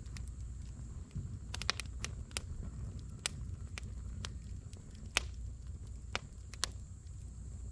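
Firewood burning in a fire pit, crackling with irregular sharp pops: a quick cluster of snaps just under two seconds in and the loudest pop a little after five seconds, over a low steady rumble.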